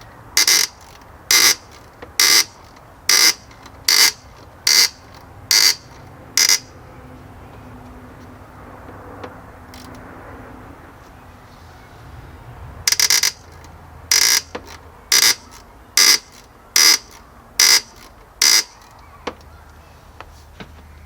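Electronic beeping: short, loud beeps a little more than one a second, in two runs of about eight beeps, with a pause of several seconds between the runs.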